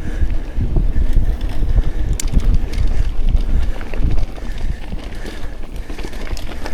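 Wind buffeting the action camera's microphone while a mountain bike rides along a dirt trail, with the bike's rattle and scattered sharp clicks over a heavy rumble.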